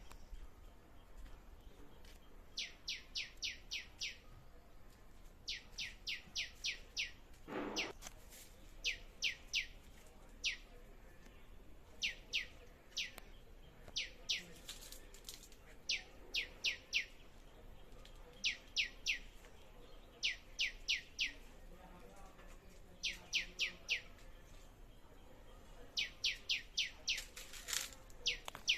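A songbird singing, repeating quick bursts of four to six high notes that each slide downward, a new burst every couple of seconds. A short rustling noise about eight seconds in.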